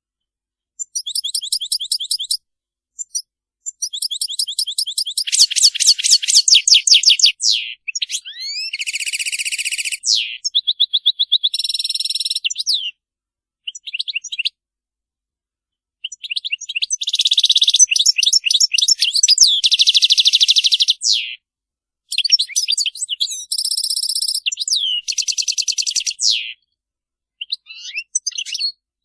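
European goldfinch singing its twittering 'batbata' song: fast trills of repeated notes mixed with buzzy phrases, broken by a few short pauses.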